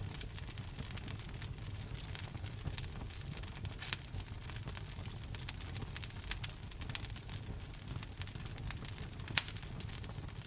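Wood fire crackling: a dense run of small pops and snaps over the low rumble of the burning logs, with two louder pops, one about four seconds in and one near the end.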